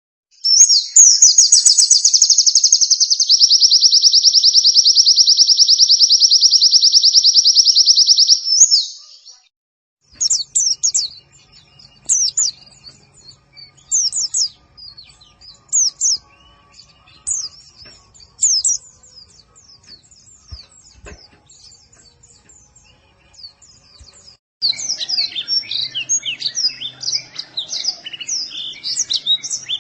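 Pleci (white-eye) birdsong: a loud, fast, high trill held for about eight seconds, then scattered short high chirps, then a dense run of quick notes near the end.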